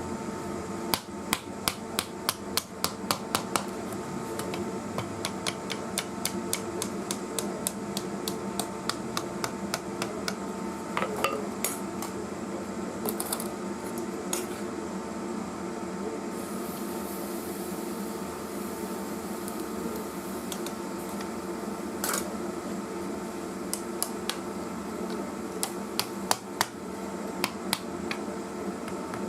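Hammer blows on metal during the forging of wrought iron: a fast run of sharp strikes in the first few seconds, then scattered single blows, over a steady machine hum.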